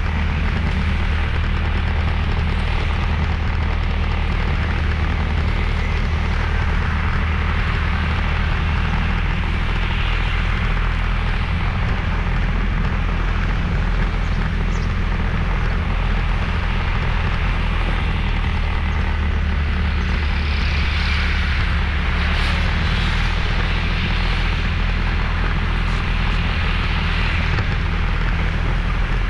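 Motorbike engine running while riding, under a steady low rumble and rushing noise that never lets up.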